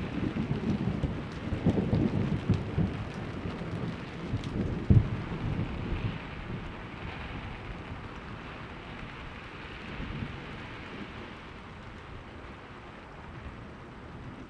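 Thunder rumbling over steady rain. The rumble fades over the first five seconds or so with one last jolt, leaving the rain's hiss.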